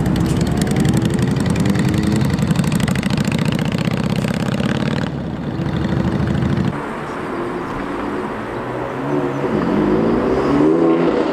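Classic Ford Mustang fastback's engine rumbling as the car accelerates away, its pitch rising, then fading out about five to seven seconds in. Near the end another car's engine revs up and down.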